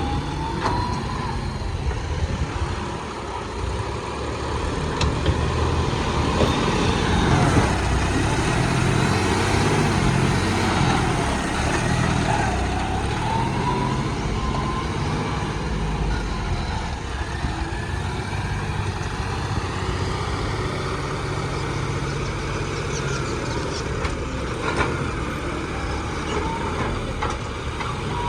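Heavy diesel engines of earth-moving vehicles running under load, a steady low rumble with a whining tone that rises and falls about a third of the way in.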